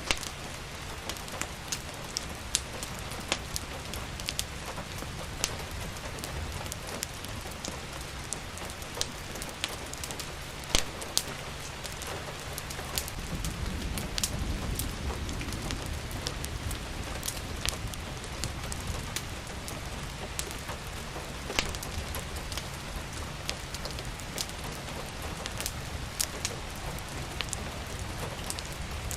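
Steady rain mixed with a crackling wood fire: sharp pops and crackles scattered irregularly over the even hiss of the rain, the loudest about eleven seconds in. A low rumble swells up a little before halfway and eases off.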